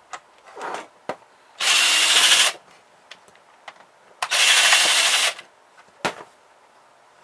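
Cordless drill-driver running in two short bursts of about a second each, backing out screws from a printer's housing, with light clicks of parts and tools in between.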